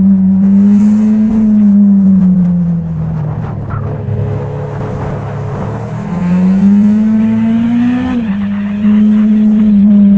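Motorcycle engine running while riding, its note easing off about two seconds in, climbing again from about six seconds, dropping sharply just after eight seconds and then holding steady.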